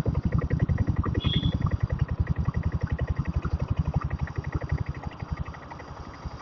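Single-cylinder diesel engine of a diesel-converted Royal Enfield Bullet motorcycle pulling under throttle, a fast, even train of loud low exhaust beats that comes on suddenly and eases off a little about five seconds in. A short high chirp sounds about a second in.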